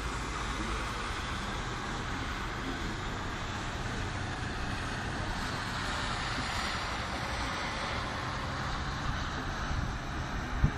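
Snowstorm wind blowing steadily as a constant rushing noise with a low rumble, and one short knock near the end.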